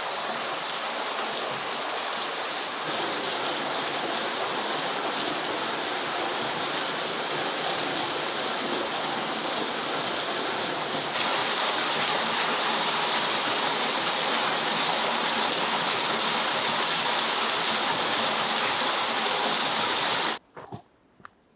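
Steady rushing and splashing of a waterfall, a constant hiss of falling water that grows louder twice and cuts off suddenly near the end.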